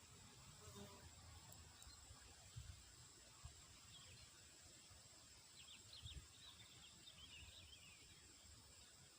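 Near silence: faint open-air field ambience with a few small bird chirps, in a patch about two thirds of the way through, and occasional low bumps.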